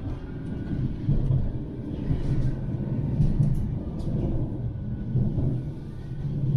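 Manchester Metrolink tram running between stops: a steady low rumble of wheels and running gear on the rails, with a few faint high ticks.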